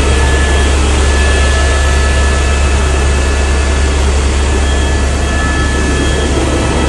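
Helicopter engine and rotor noise, loud and steady, with a strong low drone and a whine of steady tones above it.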